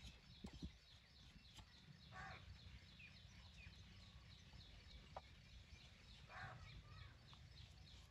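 Faint outdoor ambience: a bird chirping in a quick repeated series, about four high chirps a second, with two short louder calls about two seconds in and six and a half seconds in, over a low rumble.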